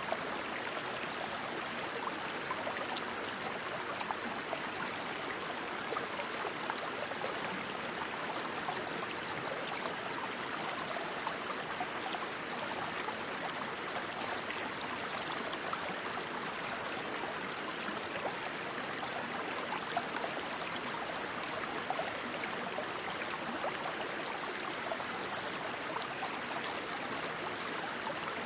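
Rushing stream water flowing steadily, with short high-pitched chirps scattered through it and a quick run of chirps about halfway.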